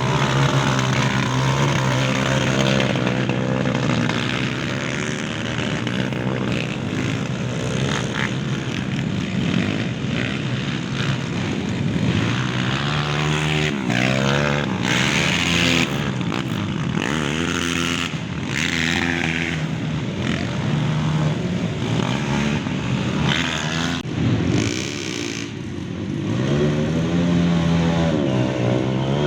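Off-road motorcycle engines revving, their pitch rising and falling again and again, at times more than one bike at once.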